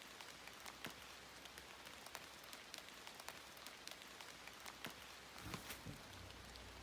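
Faint rain falling, with many scattered, irregular ticks of single drops striking.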